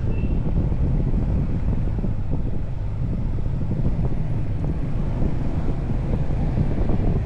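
Wind buffeting the microphone of a moving motorcycle, a steady low rumble, with the motorcycle's engine running underneath.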